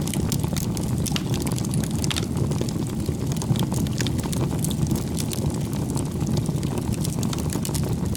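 Wood campfire burning, a steady low rumble of flames with frequent small crackles and pops.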